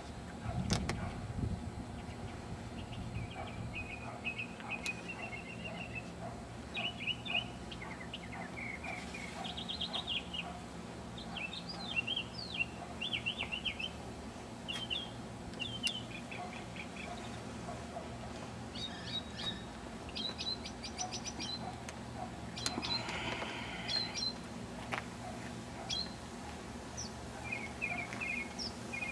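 Songbirds chirping and singing in short, repeated phrases, over a steady low background hum.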